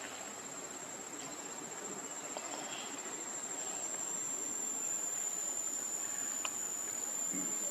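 Insects calling, a single steady high-pitched trill held without a break, over faint background noise.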